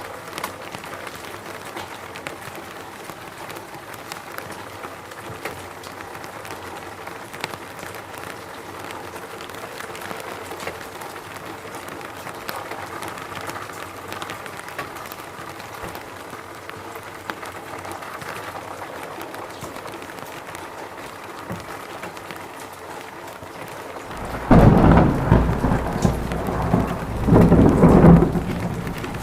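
Steady rain falling, then about 24 seconds in a loud, deep rumble of thunder that swells twice before fading.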